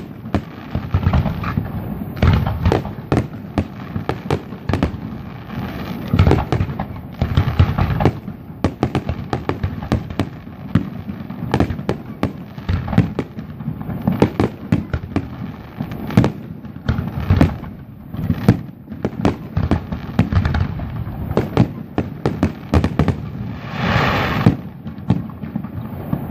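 Fireworks display: a dense, continuous barrage of aerial shell bursts, bangs coming several a second with their echoes running together. A brief hissing rush rises near the end.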